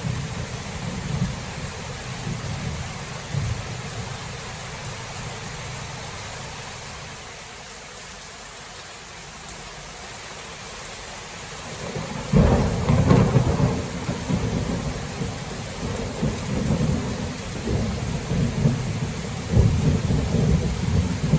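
Thunderstorm: steady heavy rain with rolling thunder. The rumble dies down in the first half, then a sharp, loud thunderclap breaks about twelve seconds in and rolls on, with more rumbling near the end.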